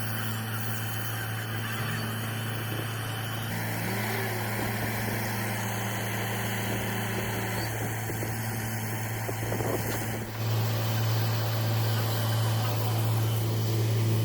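Borewell drilling rig running with a steady low drone; it gets louder about ten seconds in.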